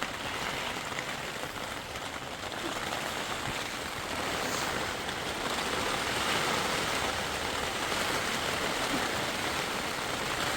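Steady rain falling, a continuous even hiss that grows a little louder partway through.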